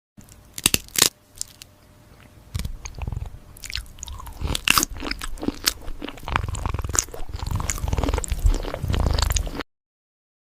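Cat crunching and chewing food, with a few sharp crunches in the first second and steadier, denser chewing after, cutting off suddenly near the end.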